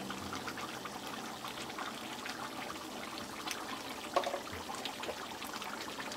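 Thick mutton karahi gravy bubbling and simmering in an open karahi, with a steady run of small pops and crackles and a brief sharper sound about four seconds in.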